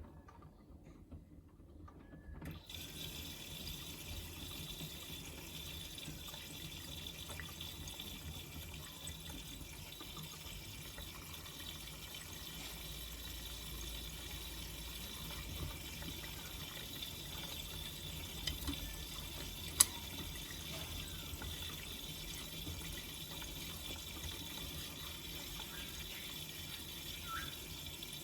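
Miele Navitronic W3985 washing machine taking in water for its second rinse: the inlet opens about two and a half seconds in and water rushes in steadily. One sharp click about twenty seconds in.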